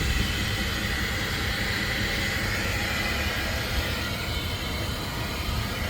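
Ford F-550 service truck's engine idling steadily, with a steady hum and a hiss over it.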